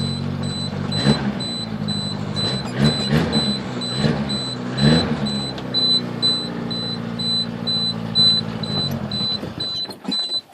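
1986 Suzuki Samurai's four-cylinder engine running just after a cold start, given a few short throttle blips before settling to an even idle, then shut off near the end. A faint high-pitched pulsing beep sounds over it.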